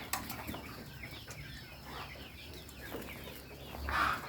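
Chickens clucking and chirping in short repeated calls, with one louder, noisier burst about four seconds in.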